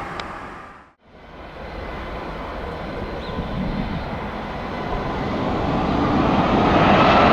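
Jet engines of a Boeing 737-700 (CFM56-7B turbofans) on a departure, a steady noisy rush that grows louder over several seconds, with a faint whine rising slightly in pitch near the end. About a second in the sound drops out briefly and starts again.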